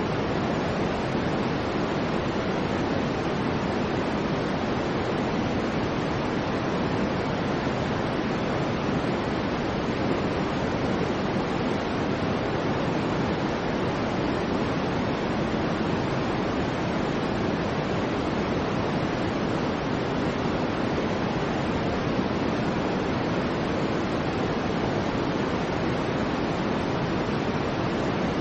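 Steady soft noise, a rushing hiss weighted toward the low and middle range like pink noise, without change or events.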